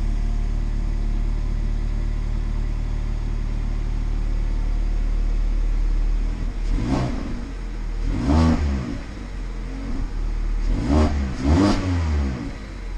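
Mazda MX-5 ND's four-cylinder engine through a RoadsterSport Race aftermarket exhaust, idling steadily and then revved in four short throttle blips from about seven seconds in, each rising and falling quickly.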